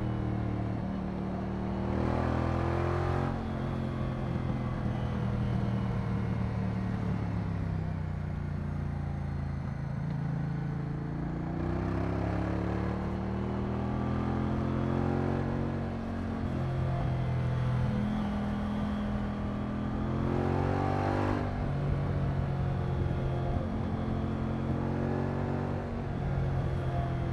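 Moto Guzzi V100 Mandello's transverse V-twin engine running on the move, climbing in pitch as it accelerates about three times and dropping back between, as at gear changes or easing off.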